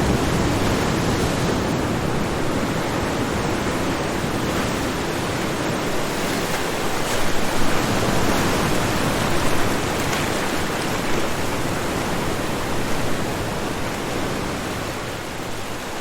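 Ocean waves washing onto a shore: a steady, dense rush of surf with slow swells, a little louder about halfway through, easing slightly near the end.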